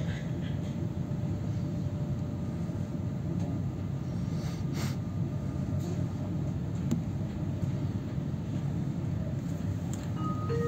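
Steady low rumble of a double-deck passenger train running along the line, heard from inside the carriage, with a few faint clicks from the track.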